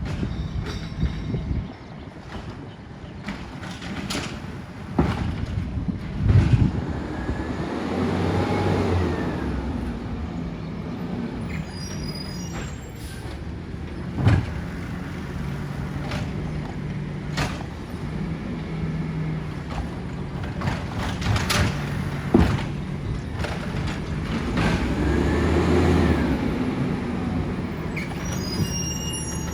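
Side-loader garbage truck working a collection stop: the diesel engine runs steadily and revs up and back down twice as the hydraulic arm cycles, with several sharp bangs of carts and metal.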